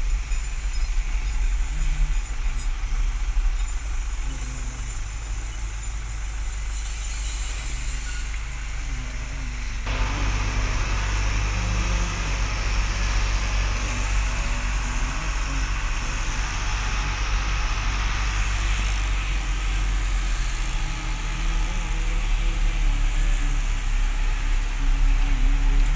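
Truck running on the road: a steady low engine rumble with road noise, the hiss growing suddenly louder about ten seconds in.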